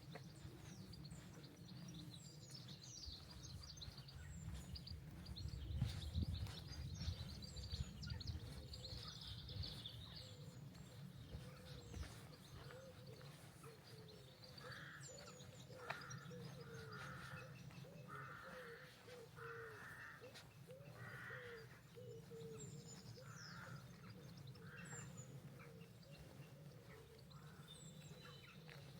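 Birds calling and chirping, with a run of about eight harsh, caw-like calls roughly a second apart in the second half, over a faint low rumble.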